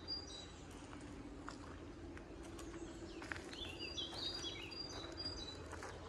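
Small birds chirping in short high calls, once just after the start and in a busier cluster past the middle, over a faint steady low hum and a few soft clicks.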